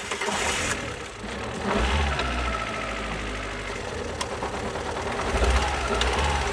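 A 2012 Alfa Romeo Giulietta's 1.4-litre petrol four-cylinder, just started, picking up about a second and a half in and running on with an unusual, knocking engine noise. Two of its cylinders have no compression, which the owner puts down to a head gasket, piston rings or valves.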